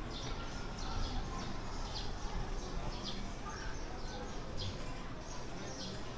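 A bird chirping over and over, short falling chirps about twice a second, over a steady background hum of ambient noise.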